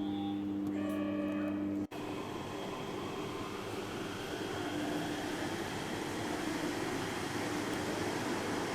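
A steady electronic hum with a few short beeping tones breaks off suddenly about two seconds in. Then comes a steady rushing running noise of a rubber-tyred Yurikamome train.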